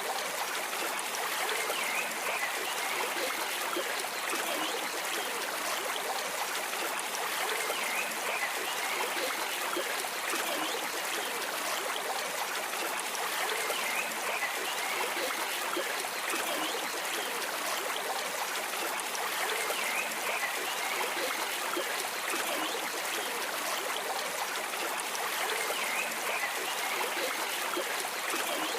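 Stream of water flowing and trickling steadily.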